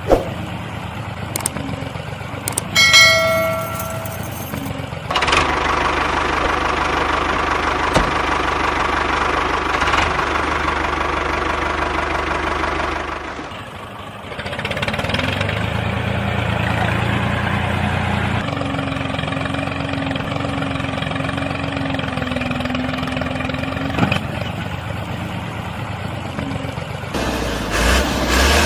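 Steady engine-like running sound, dipping briefly about halfway through, with a short ringing tone about three seconds in.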